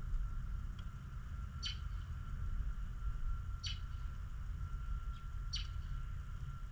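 A small bird giving a short, high chirp three times, about two seconds apart, over a steady low rumble.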